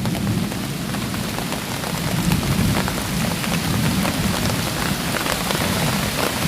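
Rain beginning to fall hard: a steady hiss with many separate drop ticks, over a continuous low rumble.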